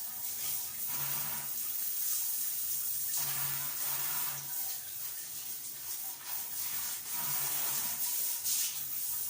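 Water running from a tap and splashing, a steady hiss that swells and dips.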